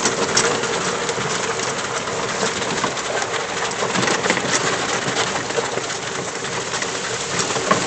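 Steady rushing noise of a 2007 EZGo golf cart driving along a trail, with a faint steady hum under it.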